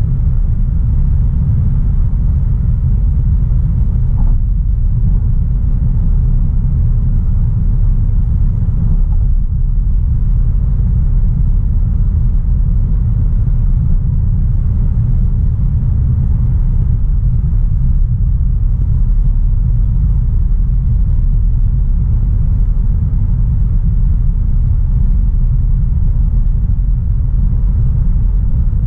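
Steady low rumble of a 2016 Audi A3 Sportback 1.4 TFSI driving at an even pace, engine and road noise together, with no rise or fall in pitch.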